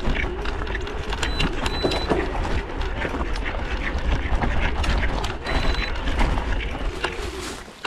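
A moving vehicle: heavy wind rumble on the microphone and a wavering engine tone, with scattered clicks and rattles. It falls away suddenly near the end.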